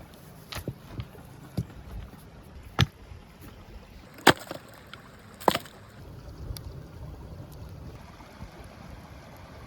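About five sharp knocks and clacks at uneven intervals, the loudest about four seconds in, over a low rumbling background, typical of handling cooking gear.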